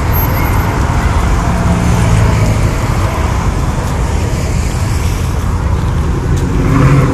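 Car engines running, a steady loud low rumble that swells briefly near the end.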